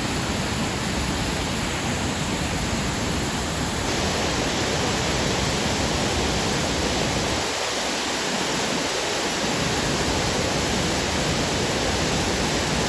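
Glen Burney Falls in heavy flow from storm rain, a loud, steady rush of falling water.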